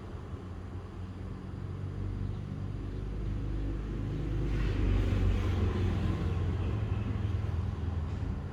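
A motor vehicle passing, its low engine rumble growing louder to a peak about five seconds in and then easing off.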